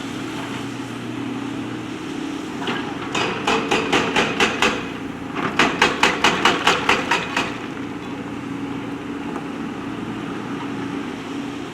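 JCB backhoe loader's diesel engine running steadily, with two runs of rapid knocks from the machine, about five a second, one a few seconds in and another in the middle.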